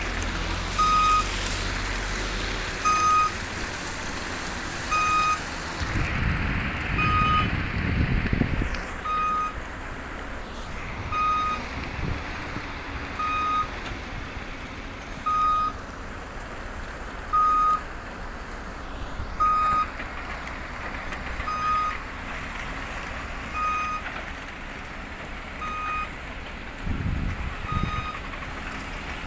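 Heavy vehicle's reversing alarm sounding one short, steady beep about every two seconds over its running diesel engine, which swells louder twice.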